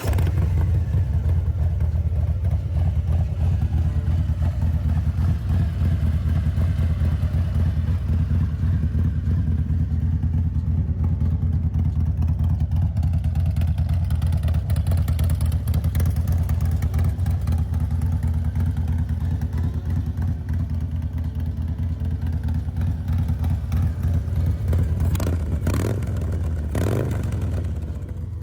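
Harley-Davidson Road Glide ST's Milwaukee-Eight 117 V-twin idling with a steady low, fast-pulsing exhaust note, just after being started, with a brief rev near the end.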